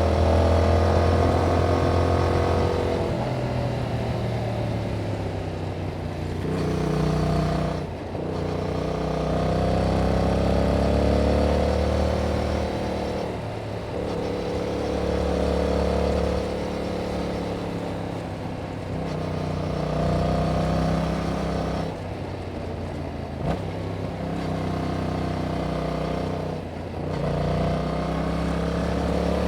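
2021 Yamaha MT-07's 689 cc parallel-twin engine through its stock exhaust with the dB killer removed, riding under load. The engine note climbs under throttle and breaks off briefly about five times as the throttle closes or a gear changes, then picks up again.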